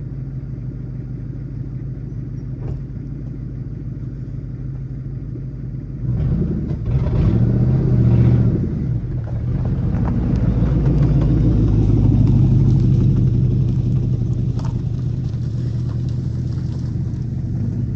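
Ford Mustang's 4.6-litre V8 running: idling steadily, then revving up and easing off as the car pulls away about six seconds in, and rising again a few seconds later before settling into a steady run.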